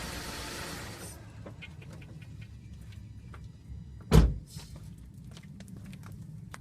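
A loud hiss cuts off about a second in, leaving a low steady hum with scattered light clicks, and one loud thud about four seconds in.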